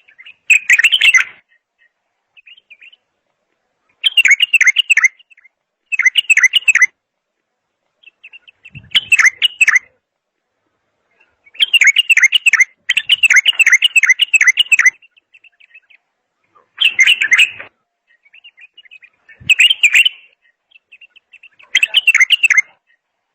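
A songbird, the one the title calls a bulbul, singing loud short warbled phrases of about a second each, repeated every couple of seconds with softer notes in the gaps between.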